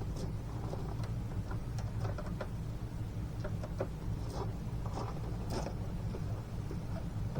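Scattered, irregular light clicks and knocks of hand tools working on engine parts, over a steady low hum.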